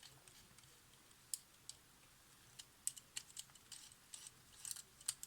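Faint, irregular small clicks and ticks from handling and turning the parts of a Polaroid SX-70 shutter assembly, a little more frequent near the end.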